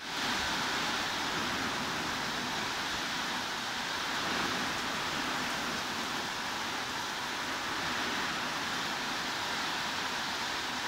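Heavy rain falling steadily, an even hiss without distinct drops.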